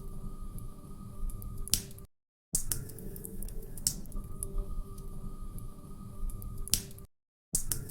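Log fire crackling in a fireplace, with a steady low crackle and scattered sharp pops. The sound cuts out completely twice for about half a second, about two seconds in and again near the end.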